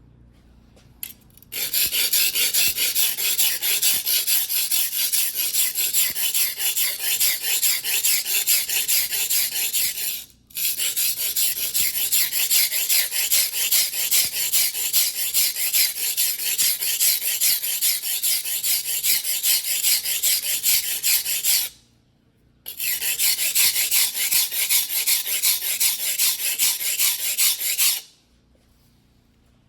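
Single-bevel fuguhiki sashimi knife of white steel being sharpened by hand on a whetstone: fast, steady back-and-forth scraping strokes. They start about a second and a half in, pause briefly twice, and stop shortly before the end.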